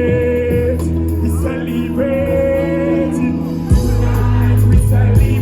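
Live concert music played loud over a PA, with held sung notes over a heavy bass line.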